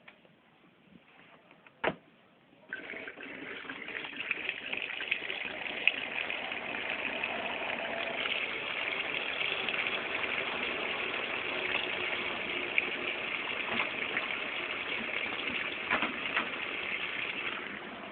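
Electrolux LTC 07 washing machine: a single click, then about three seconds in a steady rush of water running through the machine, which eases a little near the end.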